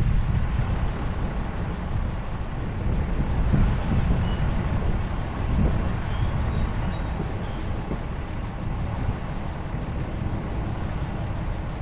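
A vehicle driving slowly along a town street: a steady low rumble of engine and road noise, a little louder in the first few seconds, with a few faint high chirps.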